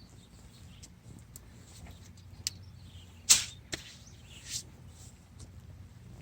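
Scattered short clicks and clinks of things being handled, with one sharp click about three seconds in, over a faint steady low hum.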